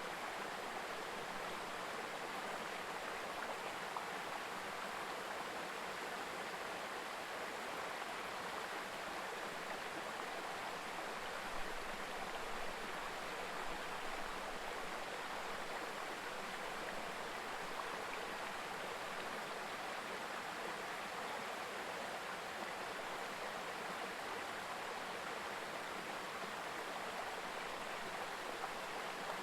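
A mountain stream babbling over rocks, a steady rushing flow of water.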